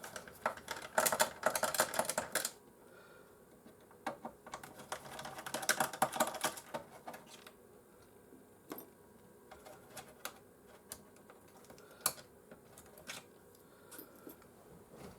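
Screwdriver undoing two Phillips screws on a PlayStation 4's power supply: two spells of rapid clicking, one starting about half a second in and one about four seconds in, then a few scattered single clicks.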